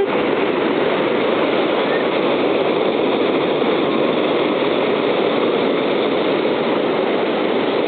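Ocean surf from a large hurricane swell: a steady, even rush of breaking waves washing onto the shore.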